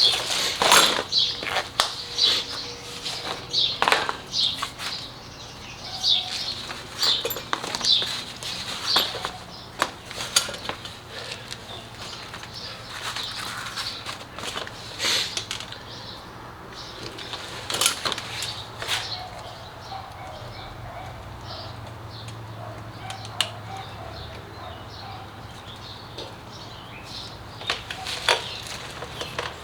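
Scattered clicks and metal clinks of hand tools and parts being handled during work on a motorcycle, over a low steady hum.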